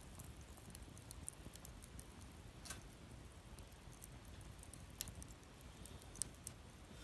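Wood fire crackling, with irregular small ticks and a few sharper pops, the loudest about six seconds in, over a low steady rumble.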